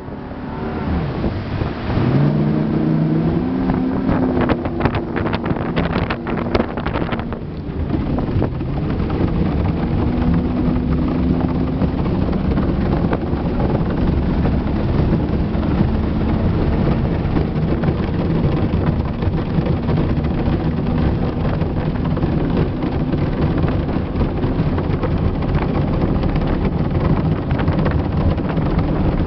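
Motorboat engine running, rising in pitch over the first few seconds as it speeds up, easing off briefly about seven seconds in, then running steadily at a held speed. Wind rumbles on the microphone throughout.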